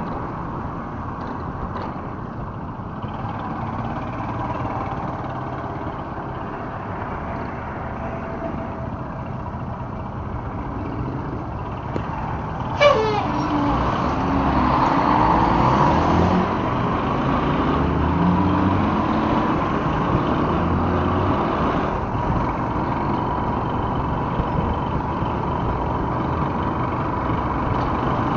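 Motorcycle engine running in slow city traffic, with other vehicles around it. About halfway through comes a brief, sharply falling squeal, and then the engine note climbs in pitch several times as it picks up speed.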